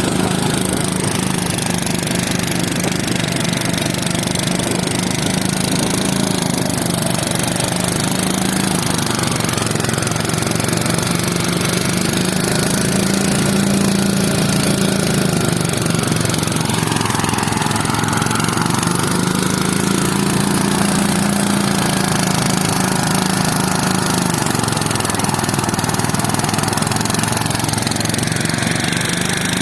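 Engine running steadily, its pitch drifting slightly up and down.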